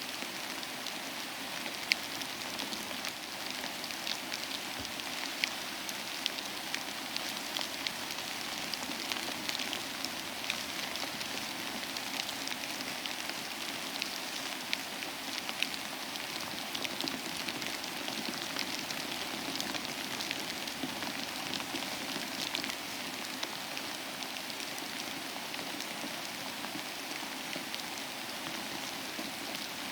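Steady rain falling, an even hiss with many close individual drops ticking, and a few louder drop hits now and then.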